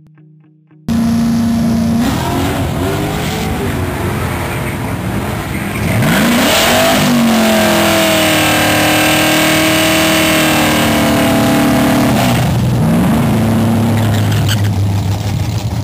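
1996 Chevrolet Camaro SS's 5.7-litre LT1 V8 revving hard during a burnout, spinning the rear tyres. It starts abruptly about a second in, climbs and is held at high revs for several seconds, then drops back and runs lower near the end.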